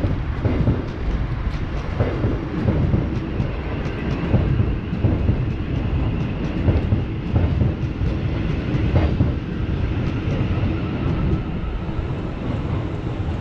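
Thameslink Class 700 electric train running past on the track below, a steady rumble from its wheels and running gear with frequent clicks as the wheels cross rail joints.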